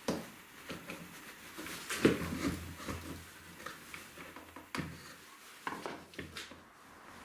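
Irregular wooden knocks, clicks and brief rubbing as parts of a wooden air engine are handled and fitted together, with no steady running rhythm.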